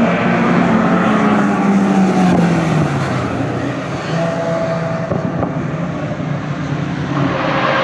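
Racing car engine at full song going past, its pitch sliding down as it passes and fades, then the sound of another engine building again near the end.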